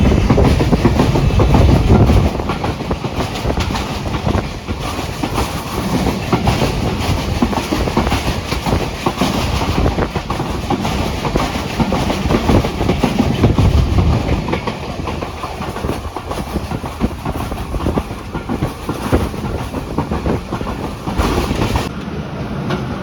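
Pakistan Express passenger train running on the track, its wheels clattering over the rail joints with a steady rumble of the carriages, swelling louder about 13 seconds in.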